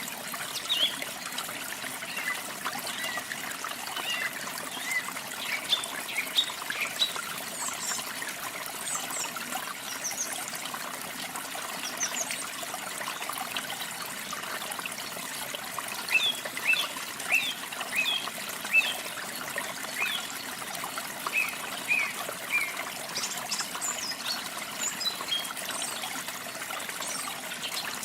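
Water trickling and splashing steadily over a small waterfall, with several songbirds chirping and trilling above it in short high phrases, busiest in the second half.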